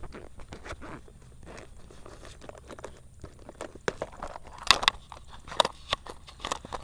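Footsteps crunching through dry grass or stubble. The steps are irregular, with rustling and a few sharper crunches about two thirds of the way through.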